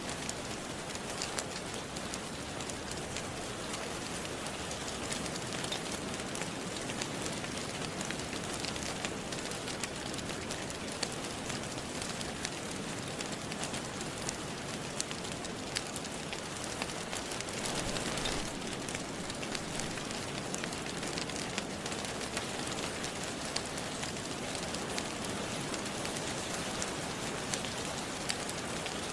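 Steady rain, with many small sharp crackles of a wood fire scattered through it. The rain swells briefly a little past halfway.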